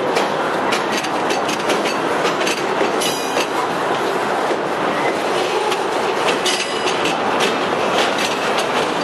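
Freight cars rolling slowly past close by, their steel wheels clicking over rail joints amid a steady rumble. Two short high-pitched wheel squeals sound, about three seconds in and again near seven seconds.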